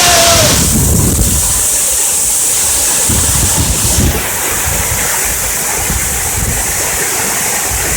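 Waterfall rushing, a steady loud hiss of falling water, with wind buffeting the microphone in uneven low gusts.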